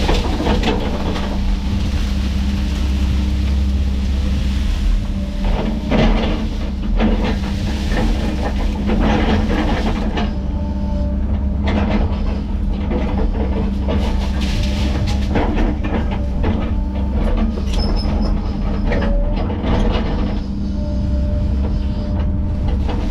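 Kobelco 210 excavator running steadily at working speed, a constant low diesel drone, with repeated metal clanks and short squeals from the machine as it moves material.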